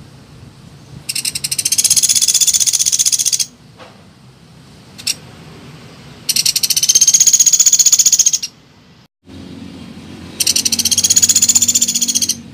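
Woodpecker giving a fast rattling trill of rapidly repeated high notes, three times, each about two seconds long. A short click falls between the first and second trills.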